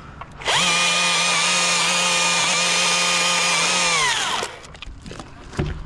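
Chainsaw held at full throttle for about four seconds at a steady pitch, then let off, its pitch dropping as it winds down.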